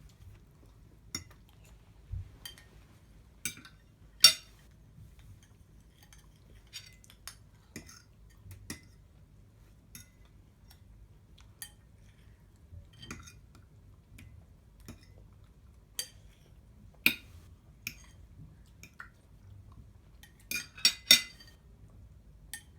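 Cutlery clinking against plates and bowls at a breakfast table: scattered, irregular clicks. The loudest comes about four seconds in, and a quick run of three clinks comes near the end.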